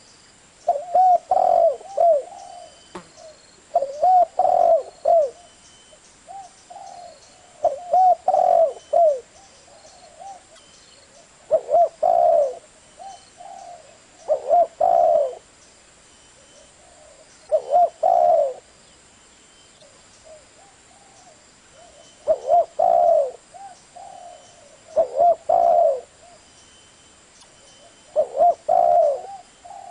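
Spotted dove cooing, repeating its phrase of several low coos about every three to four seconds. Faint high chirps of other small birds can be heard between the phrases.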